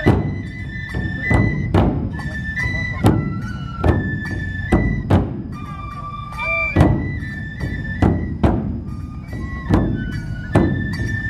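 Matsue dō festival music: large dō drums struck in a steady beat, about every half second or a little more, under a high bamboo flute melody.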